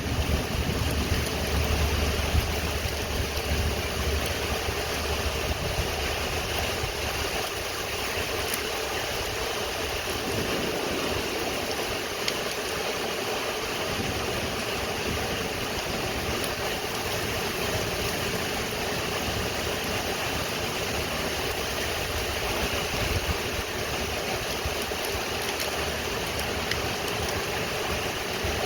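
Steady rain falling during a thunderstorm, with a low rumble of thunder dying away over the first several seconds.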